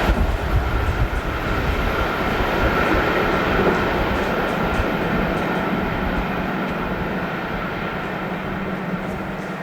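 EP2DM electric multiple unit running along the track: a low rumble with a steady hum, slowly fading toward the end.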